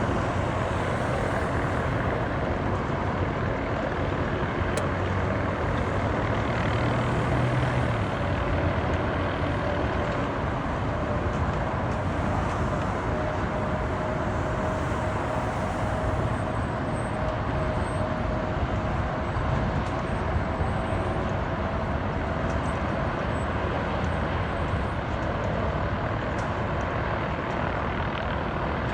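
MD 500 helicopter running, a steady noisy rumble with a faint held whine.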